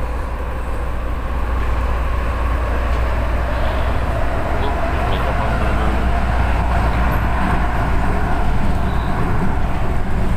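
Light-rail train running, heard from inside the passenger car: a steady low rumble with rolling noise, getting a little louder about two seconds in.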